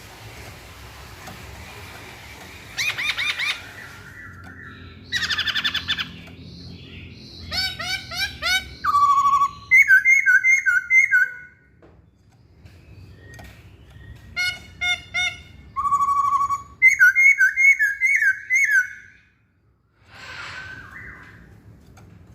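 Poksay Hongkong laughingthrush singing: loud phrases of rapid repeated chattering notes mixed with short clear whistles, starting about three seconds in, with a brief pause near the end.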